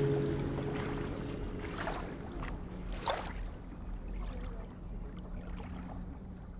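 The last acoustic guitar chord ringing out and fading, then gentle river water lapping with a few small splashes.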